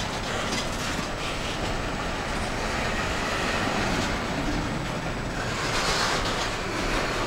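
Double-stack intermodal train's loaded well cars rolling past close by, a steady noise of steel wheels running on the rails.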